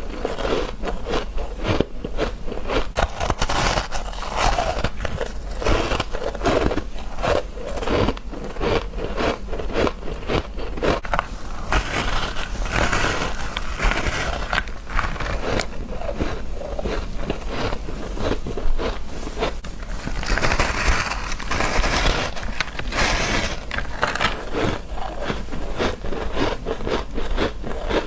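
Someone biting and chewing freezer frost and ice close to the microphone: a continuous run of crisp crunches and crackles.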